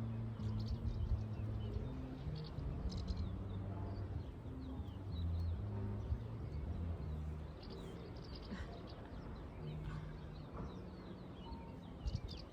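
Small birds chirping in short, repeated calls, in clusters near the start, in the middle and near the end, over soft background music of low, held notes.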